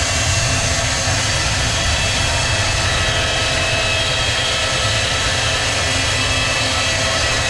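Sawmill machinery running steadily: a loud, even drone over a low rumble, with several steady whining tones.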